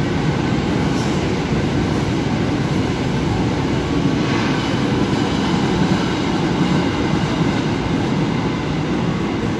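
Freight train of container flatcars and tank wagons rolling past, a steady rumble of wheels on rail.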